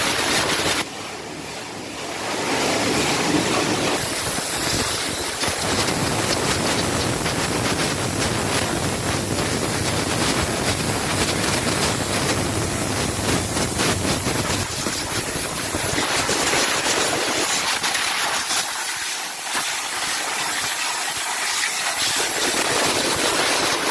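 Pressure-washer jet hissing steadily as it sprays the engine bay during an engine wash. The spray drops off briefly about a second in, then resumes.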